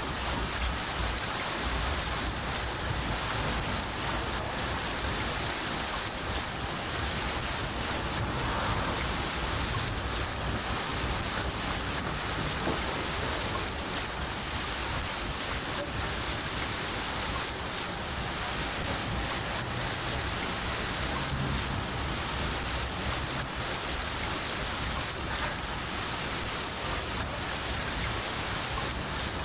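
A cricket chirping steadily, about three chirps a second, with a short pause about halfway, over a steady hiss of falling rain.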